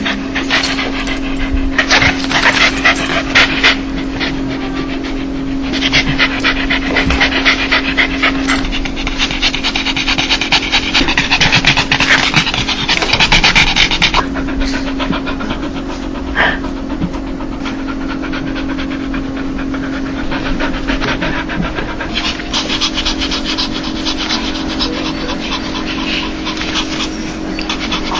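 Dog panting in quick, rapid breaths: the huffing 'laugh' a dog makes when happy and excited. The panting is heavier in the first half and softer from about halfway, over a steady low hum.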